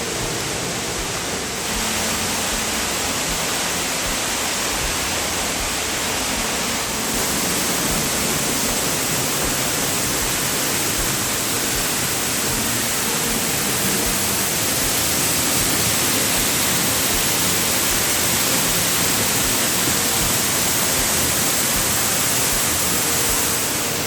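Steady rushing roar of a waterfall, a little louder about two seconds in and again about seven seconds in.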